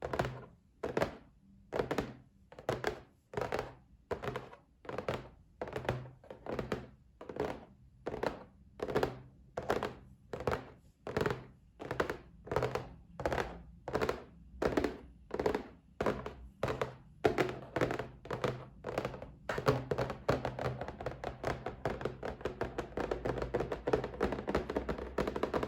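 Fingers tapping on a box in a steady rhythm of about two dull taps a second. About three-quarters of the way through, this changes to fast, continuous tapping.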